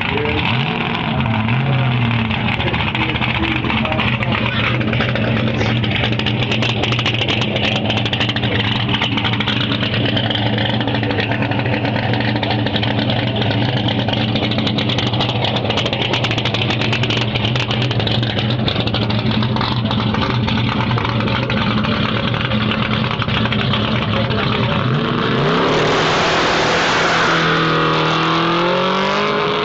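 Race-prepared saloon car's engine idling steadily for most of the time, then revving hard with a sharp rise in pitch near the end as the car launches.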